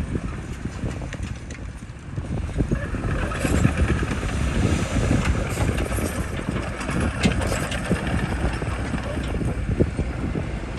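Bulldozer diesel engine running under work, a heavy low rumble with frequent short knocks and clanks; it grows louder about two seconds in.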